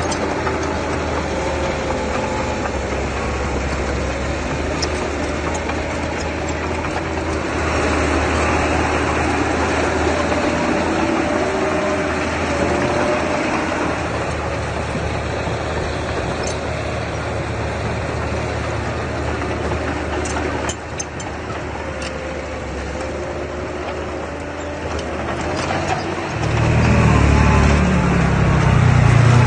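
Diesel engine of earthmoving machinery running steadily, with a faint whine that wavers in pitch. Near the end the engine note deepens and gets louder.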